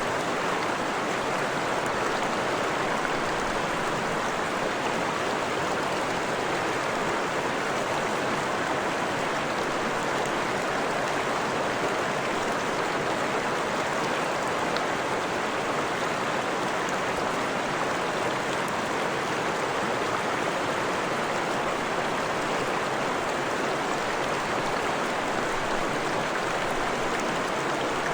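Freshwater stream flowing over rocks: a steady, even rush of water.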